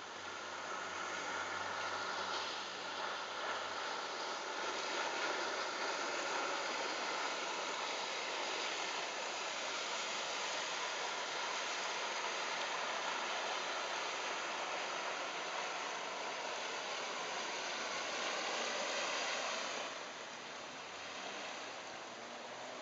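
Steady rush of water and wind as an electric RIB runs along under its quiet electric outboard, easing off somewhat near the end.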